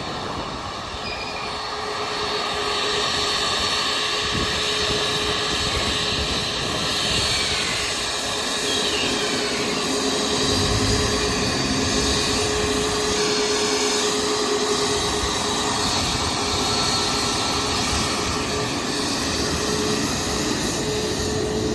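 Jet engines of a Boeing 737 MAX (CFM LEAP-1B turbofans) running loud: a steady rushing roar with a held whine through it.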